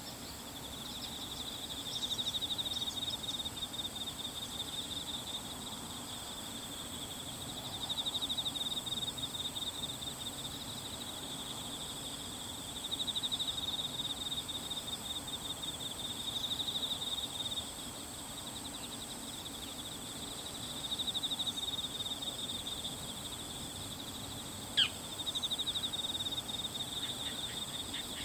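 Singing insects trilling in a steady, fast-pulsing chorus that swells louder every few seconds. About 25 seconds in there is one sharp falling call, and a few short repeated notes come right at the end.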